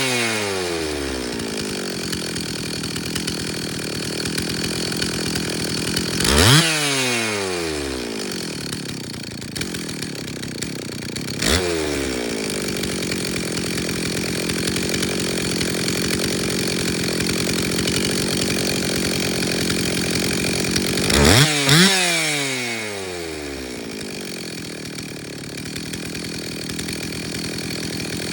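Stihl 034 single-cylinder two-stroke chainsaw engine idling steadily and revved up sharply three times: twice singly and the last as a quick double blip near the end. Each time it drops back to idle within a couple of seconds, as the repaired saw's carburettor high and low speed settings are being fine-tuned.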